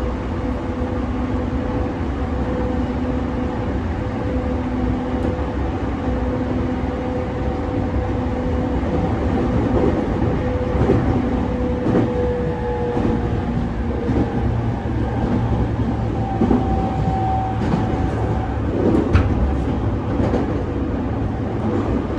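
E231-500 series electric commuter train running, heard aboard a motor car: a steady low rumble with a steady two-pitch hum, the abnormal noise (異音), that fades out about halfway through. A short higher tone follows, and sharp clicks of the wheels over rail joints come near the end.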